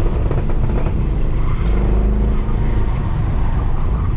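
Mercedes C63 AMG's 6.2-litre V8, with its secondary cats and resonators deleted, running hard on track. Its note breaks up with a few sharp pops in the first second or so, then settles back into a steady pull.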